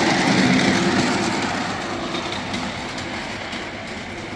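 Ride-on miniature railway train, a model Class 08 shunter with its cars, running along the track and slowly fading as it moves away.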